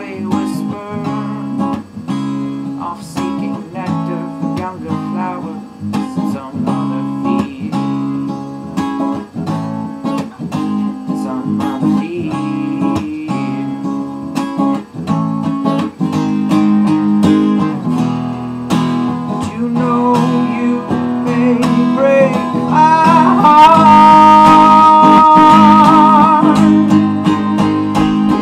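Acoustic guitar strummed in a steady rhythm through an instrumental passage of a song. Near the end the playing grows louder and a long, slightly wavering sung note is held over it for a few seconds.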